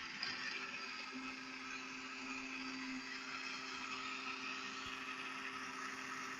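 Small battery-powered DC motor inside a homemade Lego airplane, running with a steady high whir.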